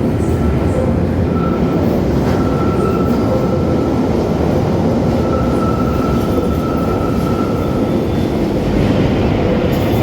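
London Underground 1972 Stock tube train running, a loud steady rumble with a faint steady whine over it.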